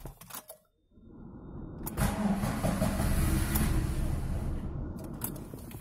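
Lada Priora 16-valve four-cylinder engine started on the starter about a second in, catching and settling into a steady idle. It carries the light ticking (tsokot) that new hydraulic lifters did not cure, which the owner puts down to worn camshafts, most likely the exhaust camshaft.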